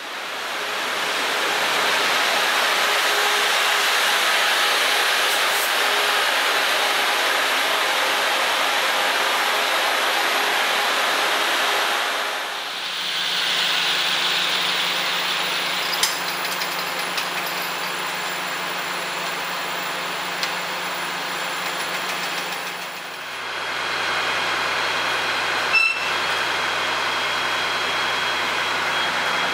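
Taiwan Railways trains running past at a station, played back at double speed: a steady rush of train noise that changes abruptly about twelve and twenty-three seconds in, where the recording cuts to another train. The later two parts carry a steady low engine hum.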